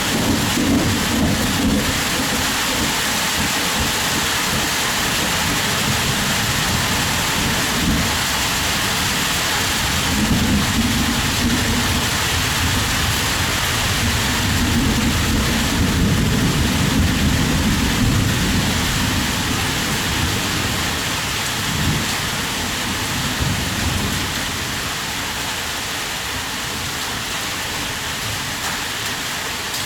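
Heavy rain falling steadily, with low rolling thunder that swells several times in the first two-thirds and dies down toward the end.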